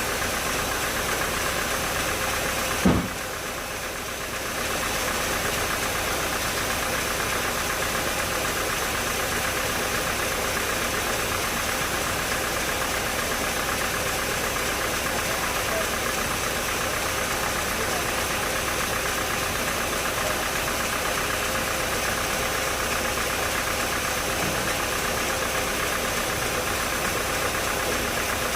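Sawmill machinery running steadily, with one sharp knock about three seconds in, followed by a brief dip in the noise before it steadies again.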